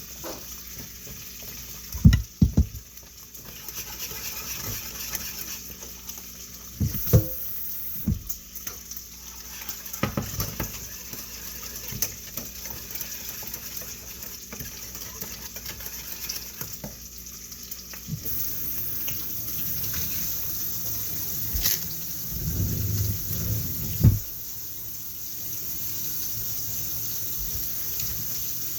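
Kitchen tap running into a sink as a steady hiss of water, getting louder about two-thirds of the way through. Several sharp clinks and knocks of dishes or utensils come through it.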